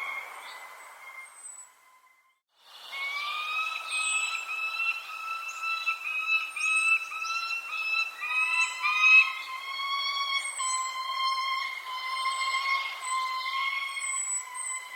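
Short high bird chirps over a steady, held pitched tone. The tone drops out briefly about two seconds in, comes back slightly higher and wavering, and a second steady tone joins it about eight seconds in.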